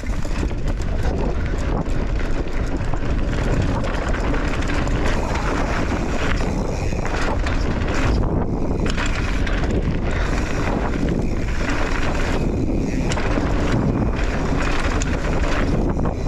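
Loud wind buffeting the microphone, mixed with mountain bike tyres rolling on a dirt jump trail at speed.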